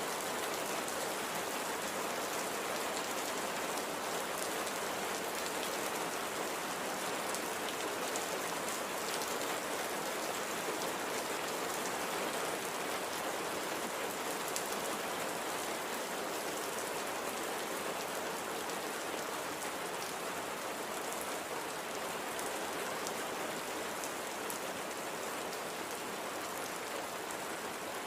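Steady light rain falling, an even patter of drops with faint individual drop ticks.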